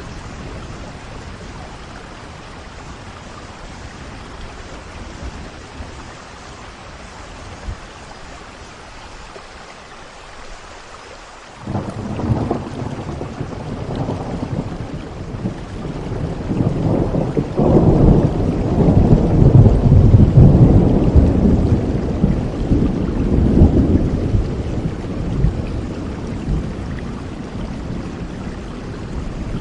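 Steady rain falling. About a third of the way in, thunder breaks in suddenly and rolls on in a long low rumble that swells and then slowly dies away under the rain.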